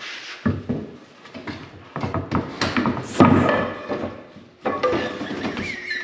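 A series of knocks and clattering impacts, the loudest about three seconds in, as a piece falls and lands on a wooden board.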